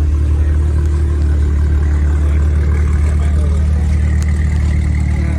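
Car engine idling with a loud, steady, deep exhaust rumble.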